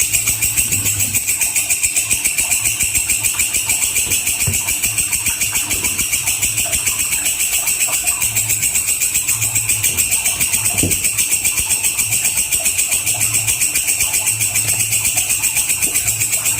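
Walang kecek insect stridulating: a loud, high, dry buzzing call made of fast, even pulses, unbroken and unchanging.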